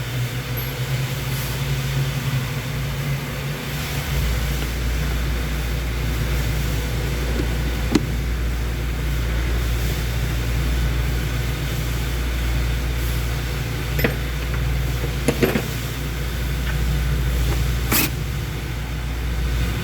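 A steady low engine drone, like a vehicle idling, which grows heavier about four seconds in, with a few sharp clicks of tools or parts on metal.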